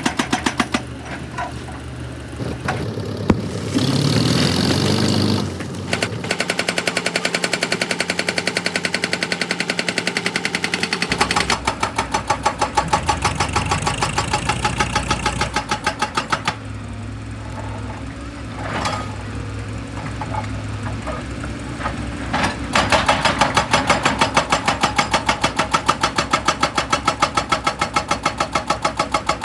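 Heavy construction machinery running with a fast, even pounding of about five beats a second, through several abrupt cuts from one take to the next.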